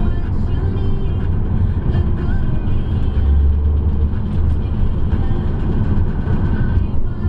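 Car driving, heard from inside: a steady low engine and road drone that swells for about a second near the middle, with music playing over it.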